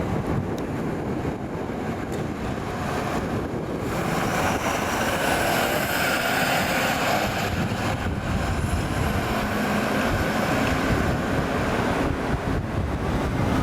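Fire truck driving past, its engine and tyre noise swelling from about four seconds in and staying loud.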